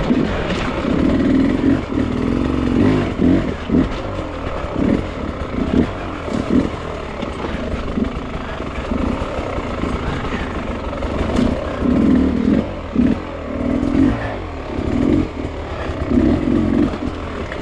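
Dirt bike engine worked on and off the throttle in short bursts, the note rising and falling every second or so, with knocks and clatter as the bike goes over loose rock.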